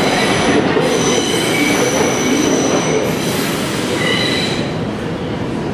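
R142 subway train pulling into the station: loud rumble of wheels on the rails, with several high, steady squealing tones coming and going over it.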